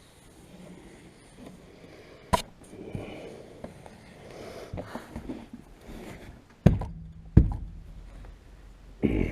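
Sharp knocks during rear window and rubber seal fitting: one a little over two seconds in, then two louder ones under a second apart later on, between soft breathing sounds.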